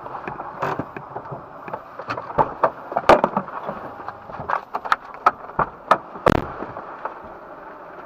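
A rapid, irregular series of sharp cracks and pops over a steady background noise, thickest in the middle.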